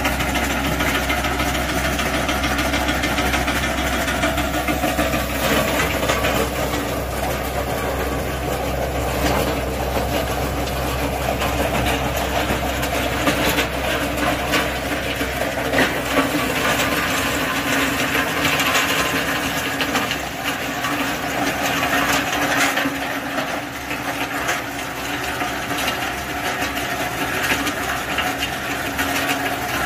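Geumseong GS-1500 perilla and sesame thresher running steadily: a continuous mechanical hum and rattle with frequent small clicks. The deepest part of the hum drops away about two-thirds of the way through.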